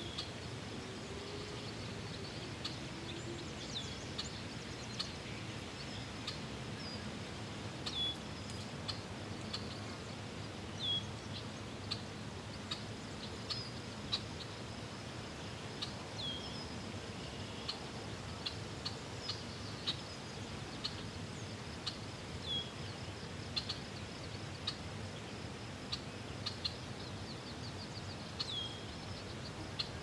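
Small birds chirping: short high chirps, several with a falling hook, every second or two over a steady even hiss.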